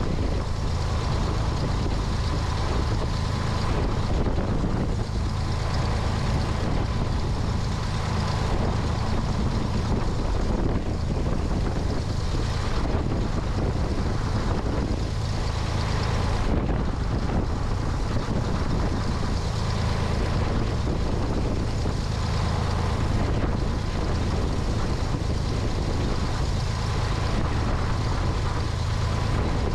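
Cessna 172's piston engine and propeller running steadily, with wind rushing over the wing-mounted microphone.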